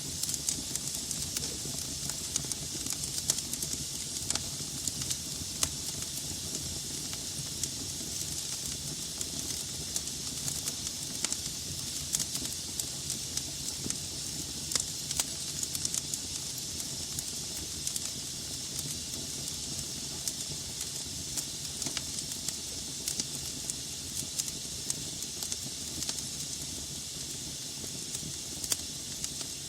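Logs burning in a fireplace: a steady hiss broken by many irregular sharp crackles and pops.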